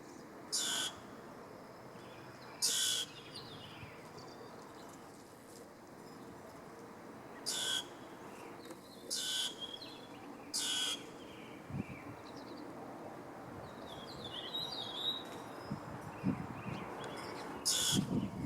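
Common grackles calling: about six short, harsh calls spaced irregularly, with fainter chirps in between.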